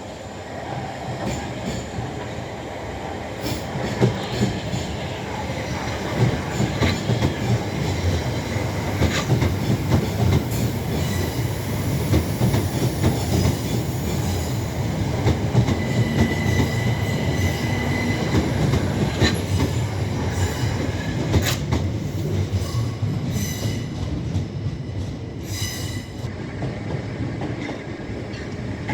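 Electric multiple-unit train moving through the station at low speed, a continuous rumble building over the first few seconds. Sharp wheel clicks over rail joints are heard throughout, and the wheels squeal on the curved track: one held squeal for about two seconds past the middle, and shorter ones near the end.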